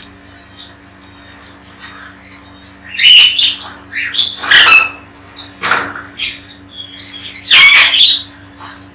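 Pet parrots squawking: a series of loud, harsh calls, the loudest in the middle and near the end, with small chirps between them.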